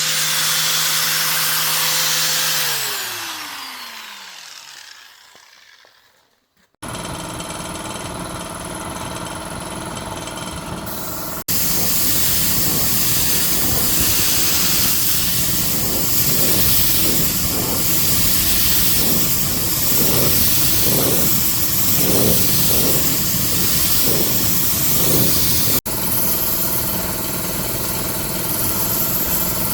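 A small electric motor runs with a steady whine, then is switched off about two and a half seconds in and winds down to silence, its pitch falling. Steady machine running noise follows in sections that start abruptly, with a regular pulsing beat through the middle.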